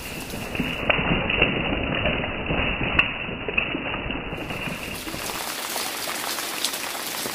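Heavy rain falling, a steady hiss with scattered drop ticks and a few knocks; for the first few seconds it sounds duller before the full hiss returns.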